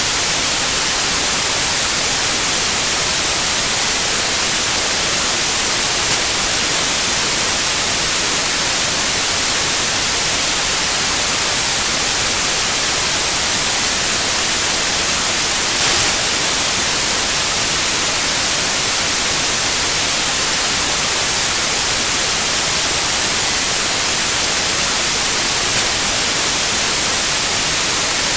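Synthetic white-noise hiss with a steady, high-pitched sine tone at about 9645 Hz laid over it: a tinnitus sound-therapy signal. The tone drops out for a moment about four seconds in.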